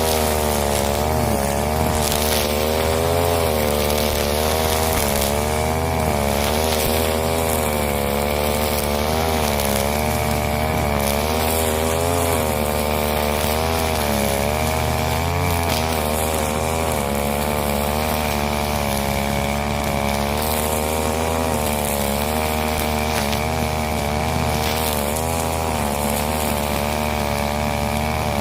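Husqvarna 541 brush cutter's two-stroke engine running hard and continuously, its pitch wavering up and down every second or so as the blade works through the undergrowth, with a steady thin high whine over it.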